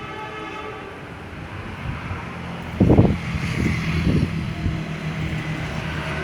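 Mutiara Timur passenger train rolling past, with a steady low hum. About three seconds in, loud irregular knocks begin as the wheels pass over rail joints.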